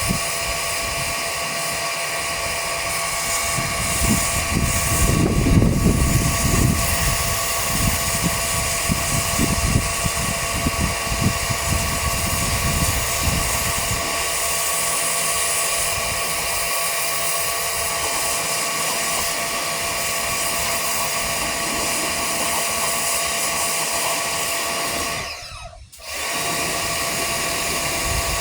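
Pressure washer running: a steady motor whine over the hiss of the spray. It cuts out for about a second near the end, then starts again.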